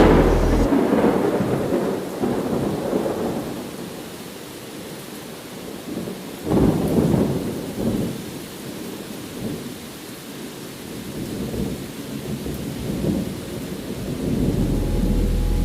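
Steady rain with thunder: a loud crack at the very start that rolls off over a couple of seconds, then a second rumble about six and a half seconds in, followed by smaller rumbles.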